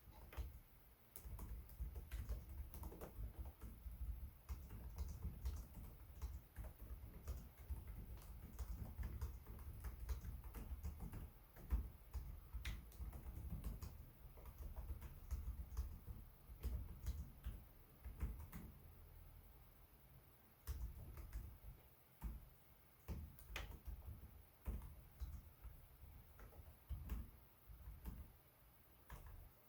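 Typing on a Lenovo Legion 5 Pro laptop keyboard: quick, irregular key clicks in bursts with brief pauses, the longest about twenty seconds in.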